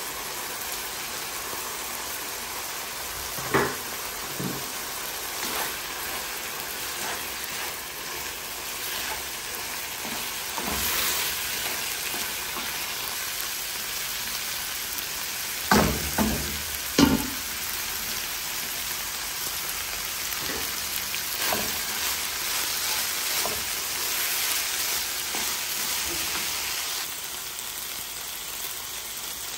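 Minced meat and onions sizzling in a frying pan while a wooden spatula stirs them, knocking against the pan a few times, loudest just past halfway. The sizzle thins near the end.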